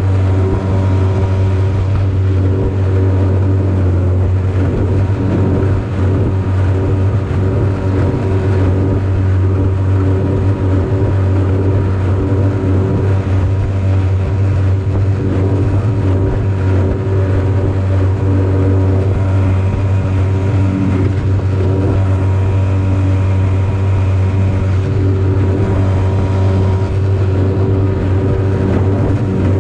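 5 hp Yamaha two-stroke outboard motor running steadily at full throttle, a loud, even hum that holds the same pitch throughout.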